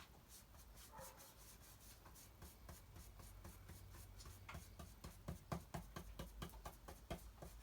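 Stencil brush dabbing paint through a stencil onto bare wood: a run of short, dry taps, sparse at first, then quicker and louder from about halfway, at around four to five a second.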